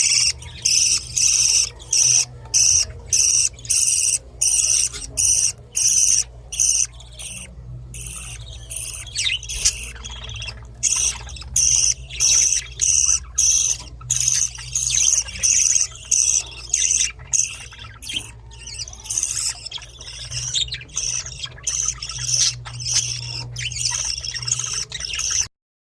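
Baby budgerigar chicks begging for food: short, high-pitched chirping calls repeated a little more than once a second, crowding together in the middle, over a steady low hum, stopping abruptly near the end.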